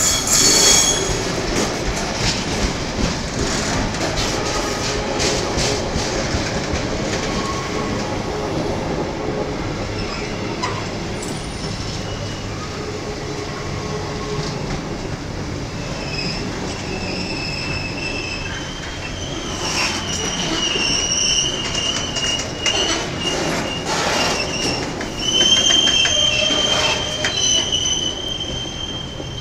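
Container flat wagons of a freight train rolling past, with the wheels clattering and knocking over the rails. High-pitched wheel squeal comes in about halfway through and is loudest near the end.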